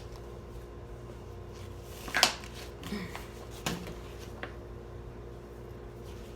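A few short knocks and rustles of things being handled, the loudest about two seconds in, over a steady low electrical hum.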